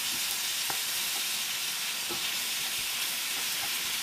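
Steak strips, onions and bell peppers sizzling in a hot cast-iron skillet as they are stirred with a wooden spoon: a steady frying hiss with a few light scrapes of the spoon.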